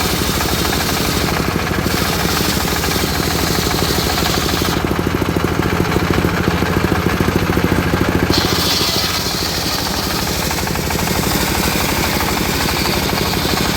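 Homemade engine-driven circular sawmill running while it saws teak: a steady engine note with a rapid knocking beat. It grows a little louder around the middle, then eases off, while a hiss higher up shifts as the blade works.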